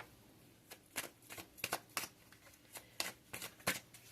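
Tarot cards being shuffled and handled: a quiet, irregular run of short card snaps and flicks.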